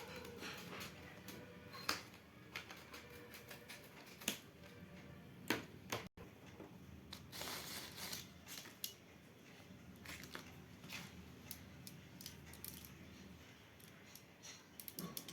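Faint, scattered clicks, taps and rustles of school stationery and its packaging being handled.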